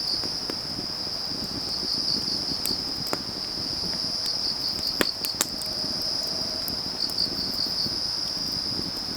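Crickets trilling steadily, breaking into a short run of about five pulses every two to three seconds, over a wood fire crackling, with a few sharp pops from the burning logs.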